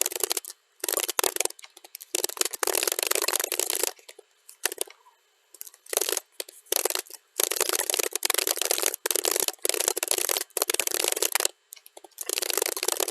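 Computer keyboard typing played at double speed: rapid bursts of key clicks with brief pauses, the longest pause about four seconds in.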